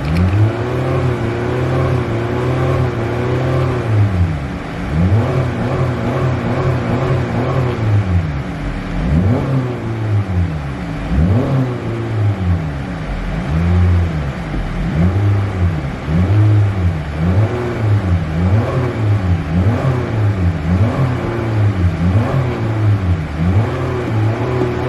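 Car engine being revved repeatedly: held at high revs for a few seconds, then blipped up and down in quick rising-and-falling revs about once a second.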